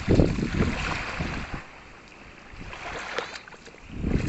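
Small surf breaking and washing up a sandy beach: a wash of water at the start fades into a quieter lull, then the next wave swells in near the end.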